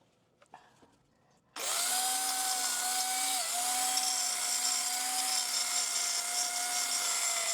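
A small high-speed power tool starts up about one and a half seconds in and runs with a steady whine while trimming the top of a drain standpipe that was cut uneven.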